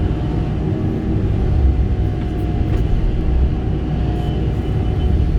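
Kobelco SK85 excavator's diesel engine running steadily at working speed, a continuous low rumble.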